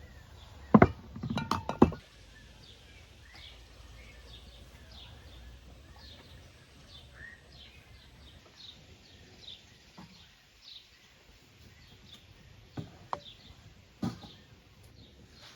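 Small birds chirping steadily, many short falling chirps. A loud cluster of sharp knocks and clinks comes about a second in, and a few single knocks come near the end.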